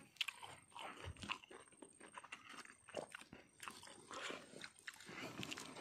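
A person eating close to the microphone: irregular small crunches and chewing.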